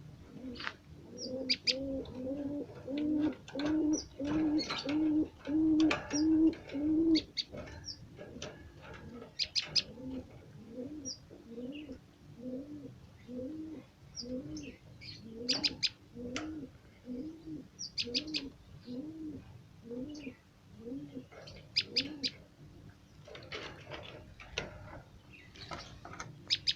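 A dove cooing in a long run of short, low, arched notes, about two a second at first and then slower, stopping after about twenty seconds. Small-bird chirps break in at intervals.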